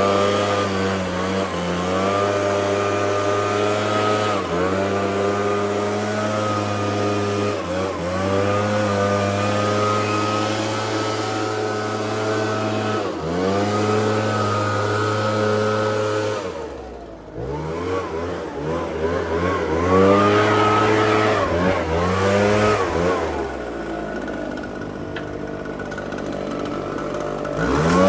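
Petrol lawn mower engine running steadily. Its pitch dips briefly every few seconds as it bogs under the load of the grass, then recovers. About two-thirds of the way through the engine note drops sharply for a second, then revs back up.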